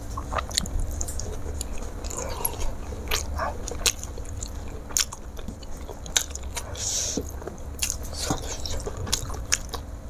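Close-up chewing of a mouthful of rice and fried fish eaten by hand: wet mouth clicks and smacks at an uneven pace. About seven seconds in, a lettuce leaf is picked up and gives a brief rustle.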